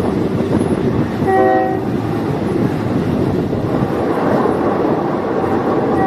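Diesel multiple unit train running along the line, a steady noisy rumble with some clickety-clack. About a second and a half in, a short steady pitched tone sounds briefly over it.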